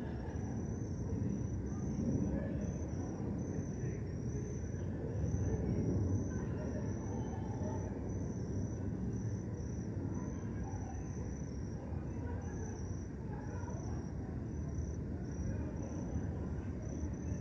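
Crickets chirping steadily, about two high chirps a second, over a constant low rumble of the surrounding city.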